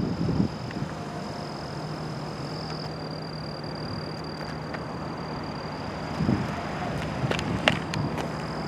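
A steady low mechanical hum with a thin, high, steady whine above it, and a few faint clicks and knocks a little past the middle.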